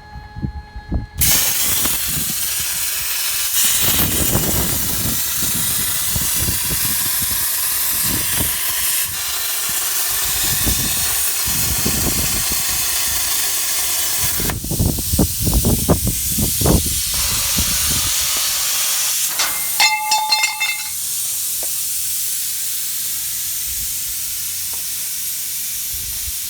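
Hypertherm Powermax65 plasma cutter torch running on the CNC table: a loud, steady hiss of the plasma arc and compressed air that starts about a second in, with some low knocks partway through.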